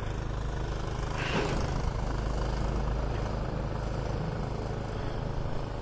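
Steady low rumble of a vehicle engine running, under a haze of outdoor noise.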